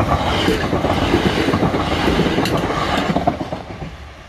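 Southeastern Class 375 Electrostar electric multiple unit passing close by, with wheel and rail noise and a few sharp wheel clicks. The noise dies away about three and a half seconds in as the train moves off.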